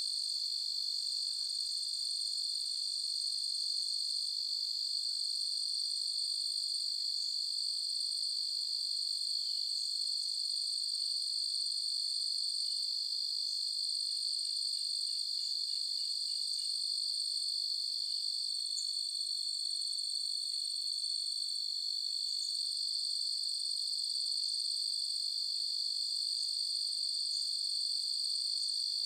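Crickets chirping in a dense, unbroken night chorus, a steady high-pitched trill. About halfway through, a faint quick series of lower chirps sounds briefly.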